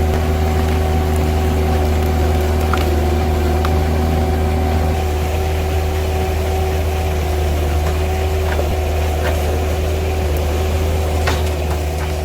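Engine-driven log-splitting machinery running steadily at a constant pitch, with a few faint clicks and knocks.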